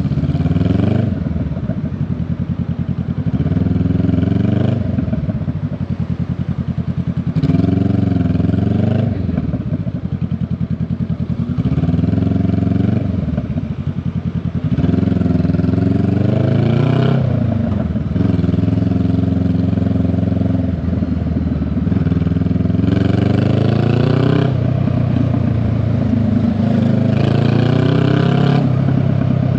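Honda Rebel 500's parallel-twin exhaust on the move, its note climbing in pitch and dropping back again and again every few seconds as the bike pulls away and shifts.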